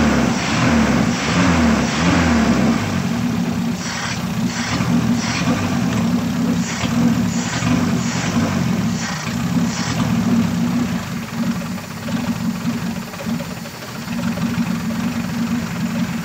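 Toyota 4K four-cylinder carbureted engine idling unevenly while its carburetor idle setting is adjusted. The revs swell in the first few seconds, then settle and sag near the end, with a run of sharp clicks between about four and ten seconds in. The mechanic puts the poor running down to a stuck distributor advance plate holding the timing retarded.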